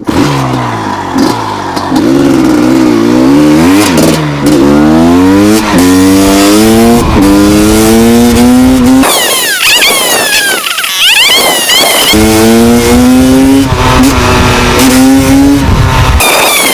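Gas Gas EC250 single-cylinder two-stroke enduro engine under hard acceleration, the pitch climbing and dropping back again and again as the rider shifts up through the gears.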